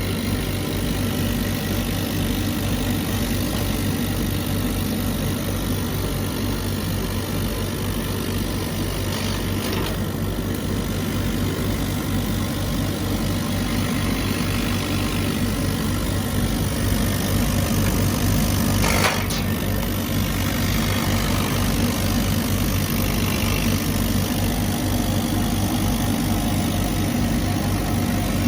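CNC laser cutter running as it cuts pine: a steady machine drone with a low, pulsing hum, and a short hiss about two-thirds of the way through.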